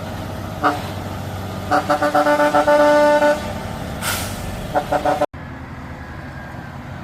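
A vehicle horn sounding a quick toot, then a run of short toots running into a held blast of about a second and a half, and two more short toots near the end, over a heavy truck engine running steadily. A short hiss comes between the toots about four seconds in.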